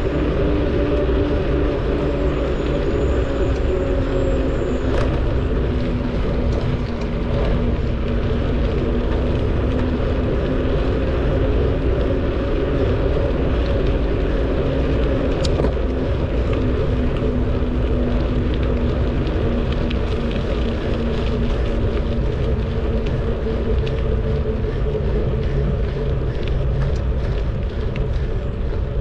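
Steady riding noise from a moving bicycle: wind rumble on the bike's camera microphone with tyre and drivetrain noise, plus a low hum that drifts slightly in pitch.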